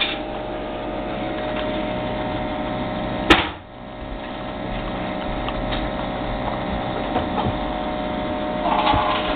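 Keurig B60 single-cup coffee maker brewing: a steady mechanical hum from its pump with coffee running into the cup. A sharp click about three seconds in.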